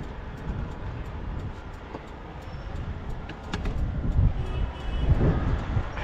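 Low, uneven vehicle rumble with scattered clicks and knocks, growing louder in the second half.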